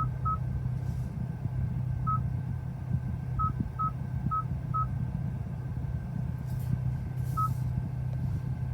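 Touchscreen key-press beeps from a Hyundai i20N's infotainment screen as a navigation search is typed: about eight short, identical beeps at irregular spacing, over a steady low hum.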